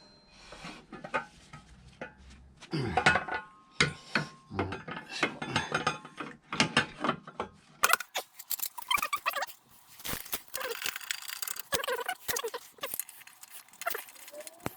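Irregular metallic clinks and knocks of tools and transmission parts being handled and fitted, as a scooter's clutch bell goes back onto the CVT drive.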